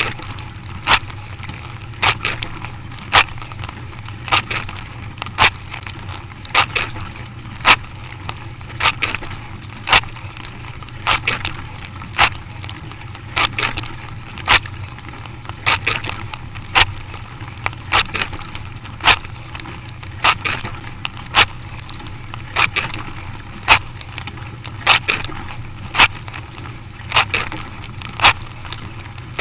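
Dishwasher running: a steady low hum with a sharp knock repeating evenly about once a second.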